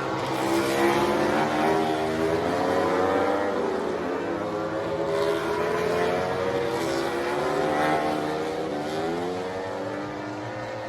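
Several racing motorcycle engines at high revs, their pitch climbing and dropping back again and again as they accelerate and shift gears.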